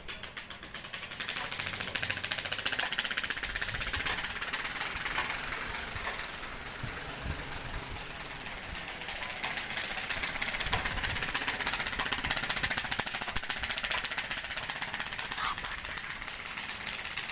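A credit card taped to a BMX bicycle's frame, flapping against the turning spokes: a rapid, motor-like clatter that gets louder and quieter as the riding speed changes.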